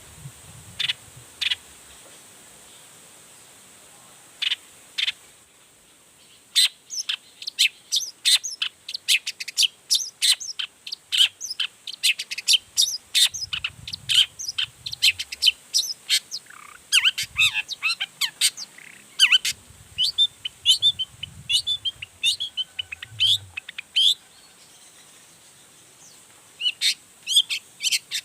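Long-tailed shrike (cendet) singing: a few sharp, separate calls, then a long, fast run of short, varied notes, a pause of a couple of seconds, and a fresh burst near the end.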